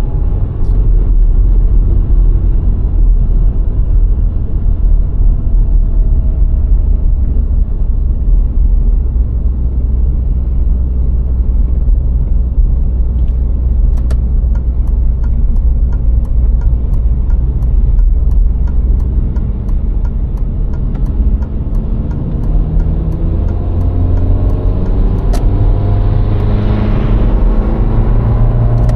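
VW Golf IV 1.6 driving on the road: steady low road and tyre rumble with the engine running underneath. In the last few seconds the engine note climbs as the car accelerates.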